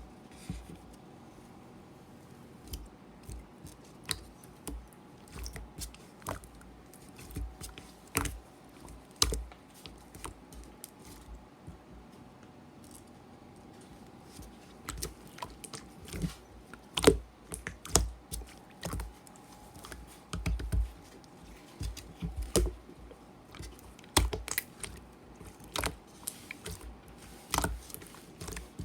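Irregular sharp taps and clicks of small objects being handled, with soft low thumps between them, denser and louder in the second half.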